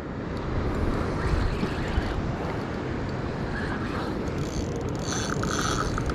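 Boat engine running under way, with wind on the microphone and water rushing past the hull. The level climbs over the first second, then holds steady.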